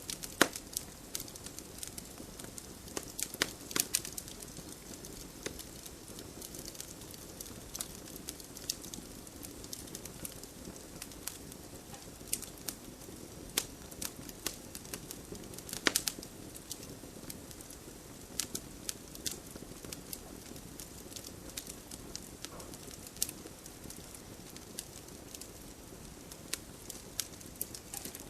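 Wood campfire crackling: irregular sharp pops and snaps over a steady soft hiss from the flames, with a couple of louder pops, one about four seconds in and one about two-thirds of the way through.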